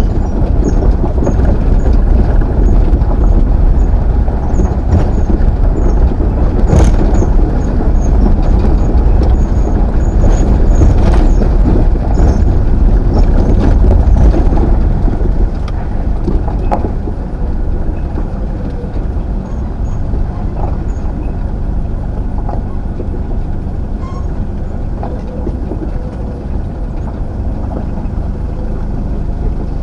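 Truck on the move: a steady low engine and road rumble, louder for about the first half and then easing off a little.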